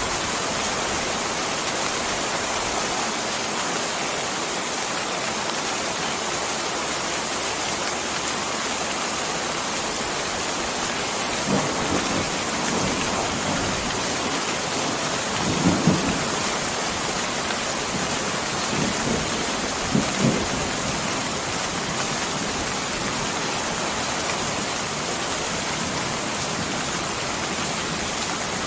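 Steady rain. About midway it is broken by a few short, low thuds or rumbles, the loudest close together near the middle.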